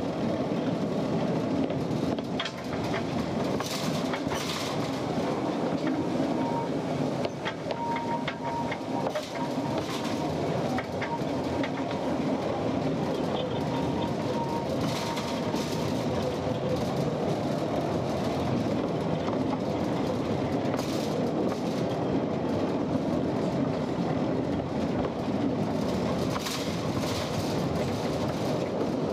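Narrow gauge mine railway train running steadily: a constant rumble with irregular clicking and clacking of the wheels on the rails, and a faint thin whine for several seconds in the middle.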